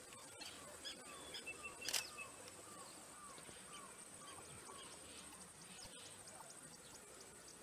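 Faint bush ambience: a bird repeating a short curved note about twice a second over a thin steady high tone, with one sharp click about two seconds in.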